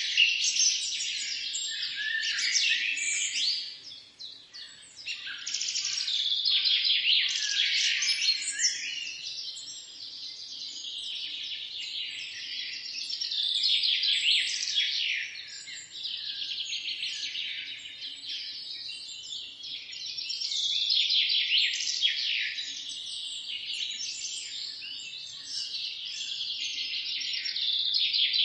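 A dense chorus of many birds chirping and singing at once, rapid high chirps and trills overlapping throughout, with a short lull about four seconds in.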